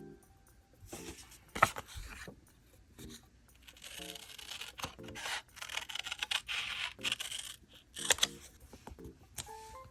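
Hands working diary stationery: a drawn-out tearing and rustling of paper in the middle, with a few sharp clicks and taps around it.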